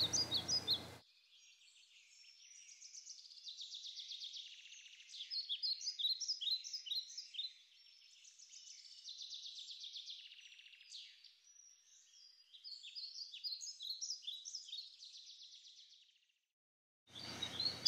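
Birds chirping and trilling in several bouts of short, quick falling notes, heard thin and high with no low end at all.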